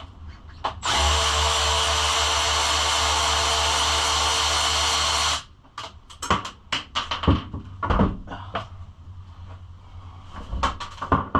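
A cordless power drill-driver runs steadily for about four and a half seconds, spinning out a fastener on the bike's bodywork, then stops sharply. Scattered clicks and knocks of tools and small hardware follow.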